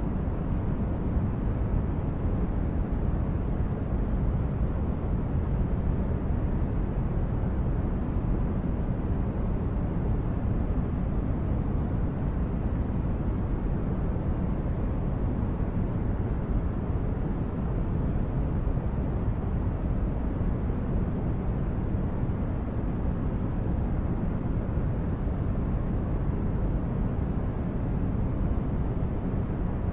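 Steady, unchanging low rumbling noise of a sci-fi starship ambience soundscape, like a spaceship's engine hum heard inside a corridor, in the manner of brown noise. It is deepest in the bass and thins out toward the treble, with no distinct events.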